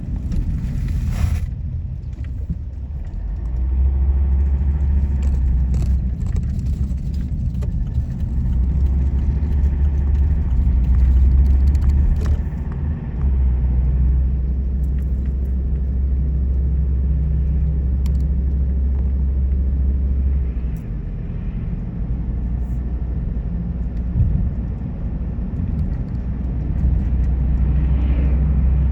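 Car driving on the road: a steady low rumble of engine and tyres that swells and eases a few times, with a brief hiss about a second in.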